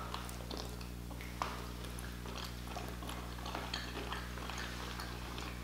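Close-miked chewing of a bitten-off piece of cooked octopus tentacle: faint, irregular wet clicks and smacks, with one sharper click about a second and a half in, over a steady low hum.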